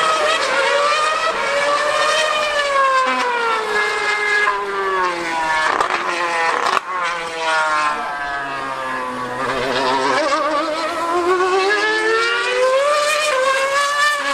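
2013 Formula One car's naturally aspirated V8 engine screaming at high revs. Its pitch falls with a few brief breaks in the first half, then climbs steadily through the second half as it accelerates.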